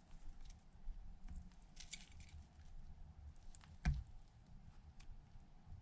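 Faint scattered clicks and taps of small parts and tools being handled on a repair bench, with one louder knock about four seconds in, over a low steady hum.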